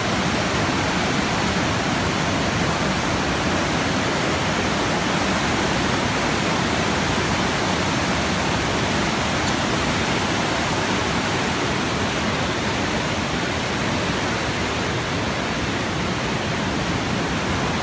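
River water rushing, a steady, even roar with no breaks.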